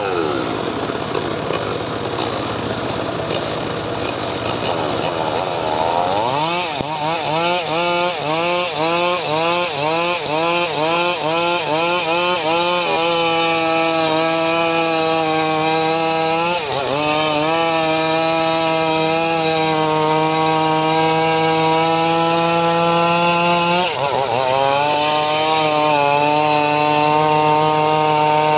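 Homemade engine-driven sawmill saw cutting mahogany. A rough, noisy rasp for the first six seconds gives way to a loud whine that wobbles up and down about one and a half times a second, then holds a steady pitch, dipping briefly a few times.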